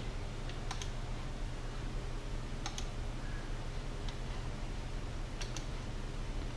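Faint room tone with a steady low hum, broken by about six short, faint clicks at irregular intervals.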